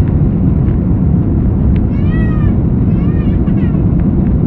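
Baby crying in two short wails, about two seconds in and again a second later, over the loud, steady engine and air noise in the cabin of an Airbus A330-200 climbing after take-off.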